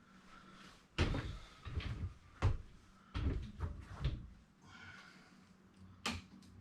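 A series of sharp knocks and clatters, hard objects bumped together, as a spirit level is set on and handled against a curtain rod. There is a cluster of them through the middle and a single knock near the end.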